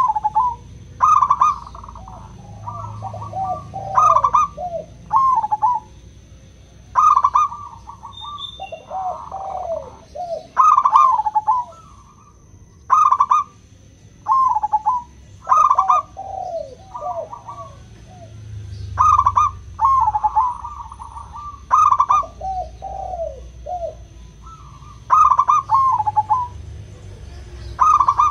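Zebra doves (perkutut) cooing: bright, clear coo phrases repeat every second or two, with lower falling coos in between. A faint steady high tone runs underneath.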